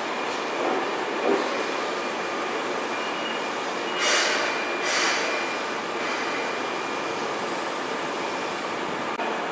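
Keihan 6000-series electric train running slowly into the platform and drawing to a stop, with a steady rumble of wheels and running gear. Two short bursts of air hiss come about four and five seconds in.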